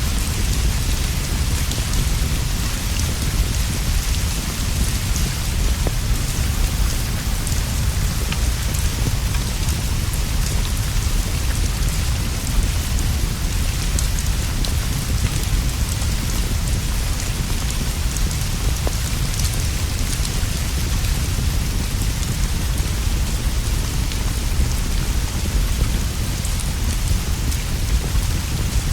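Steady rain, with a deep low rumble underneath and scattered faint ticks.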